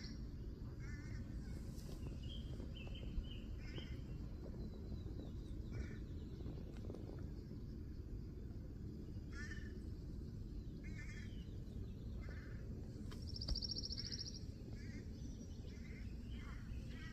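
Outdoor ambience: birds calling in short, scattered bursts over a steady low rumble, with a buzzy high trill about two-thirds of the way through.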